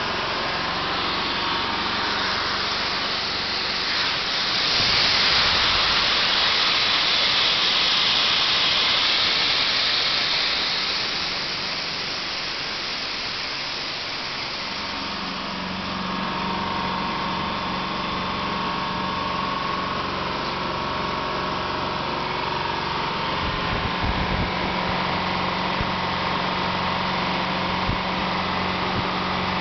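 A compressor running steadily. A hiss swells about four seconds in and fades by the middle, then a steady low hum joins for the rest.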